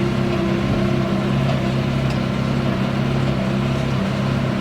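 Massey Ferguson 6S tractor's diesel engine running at a steady speed, a constant drone with no change in pitch.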